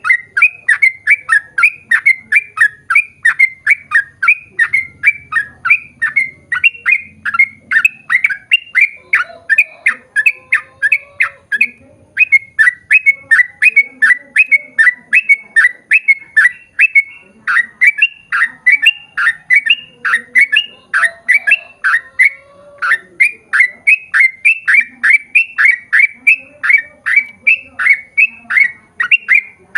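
Yellow-vented bulbul (trucukan) singing a long, rapid string of short chattering notes, each falling in pitch, about three or four a second with only brief pauses.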